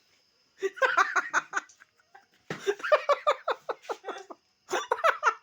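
Laughter and giggling in three bouts of quick, pulsing laughs with short pauses between.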